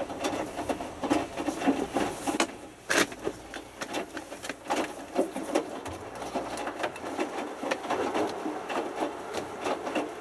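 Hotpoint Futura HF8B593 washing machine in the main wash of a whites cycle, its drum tumbling a small load of three t-shirts: irregular soft knocks, sloshes and rustles of wet laundry and water, with a sharper click about three seconds in.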